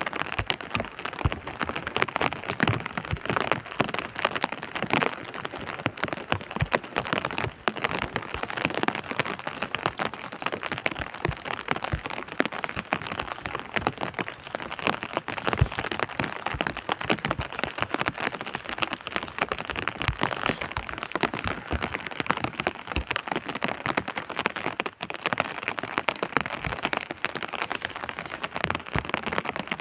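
Rain pattering steadily on a surface, a dense hiss full of individual drop hits.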